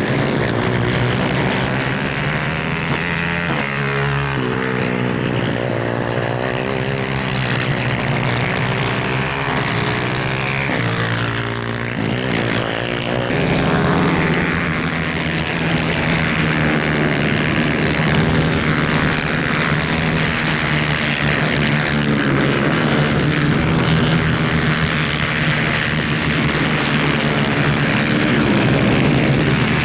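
250cc superkart engines running at racing speed in a steady, high buzz. The pitch drops and climbs again a few seconds in and again a little after ten seconds, as the karts slow for corners and accelerate away.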